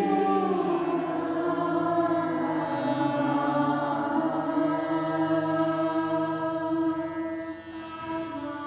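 Slow mantra chant of long held vocal tones over a steady low drone, the level dipping briefly near the end.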